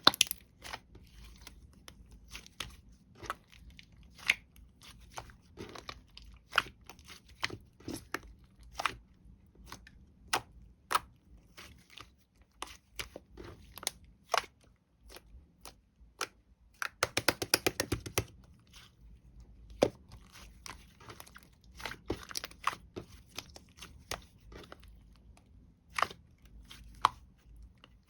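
Crinkly material handled close up: scattered single crackles and tearing sounds, with a quick run of rapid crackles about seventeen seconds in.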